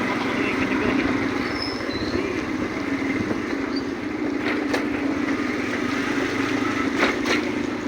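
Steady running noise of a vehicle on a ride in the rain, engine and road noise without a break, with a few short sharp clicks in the second half.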